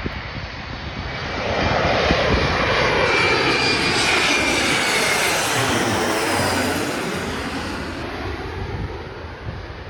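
Embraer E170 regional jet's twin turbofan engines passing close overhead on landing approach. The sound swells about a second and a half in, holds loud with a steady high fan tone, and fades away over the last few seconds.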